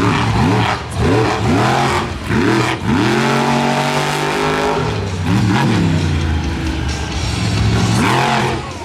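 Monster truck engine revving hard again and again, its pitch climbing and dropping back with each throttle stab, about six times.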